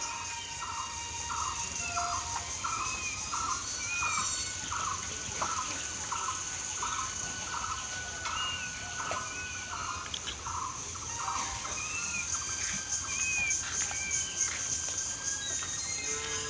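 Birds calling: one repeats a short falling note about twice a second for around ten seconds, while others give brief arched chirps. A high, pulsing buzz runs underneath.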